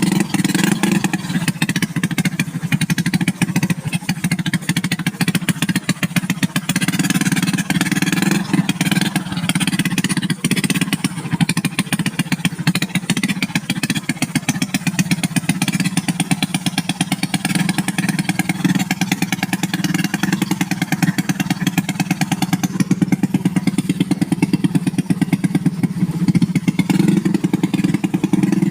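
Small motorcycle engine running steadily, with rapid, even firing pulses.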